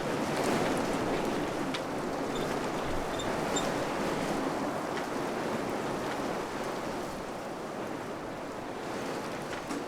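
Wind blowing steadily through a village: a broad, rushing noise that swells and eases slightly. A few faint, short high chirps sound now and then.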